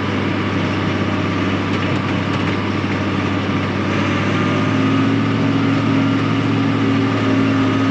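Tractor engine running steadily while driving a hay mower off the PTO, a constant low hum with a steadier, higher tone joining about halfway through.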